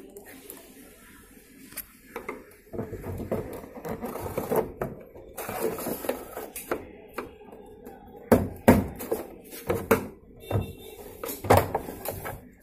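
Irregular knocking, tapping and scraping of hand tools working on a washing machine's casing, with a few sharper knocks in the second half.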